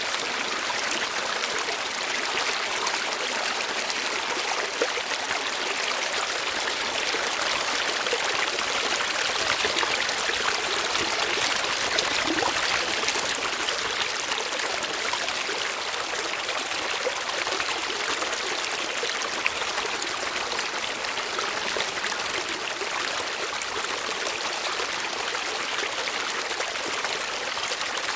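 Steady running water, like a flowing stream, with an even rushing sound that does not change.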